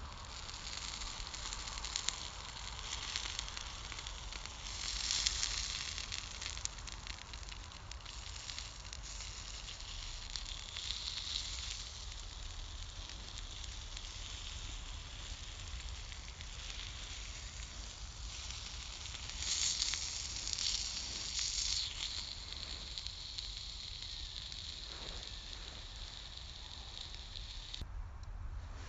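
Wood campfire burning with a steady hiss and fine crackle, swelling louder twice, a few seconds in and again about two thirds of the way through.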